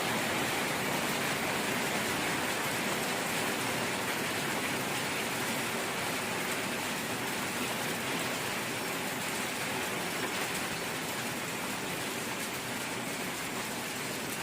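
Steady rain falling, a dense even hiss of drops on surfaces with no single drops or thunder standing out.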